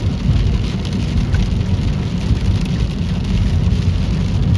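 Heavy rain pelting a moving car, over a steady low rumble of the car driving on a wet road.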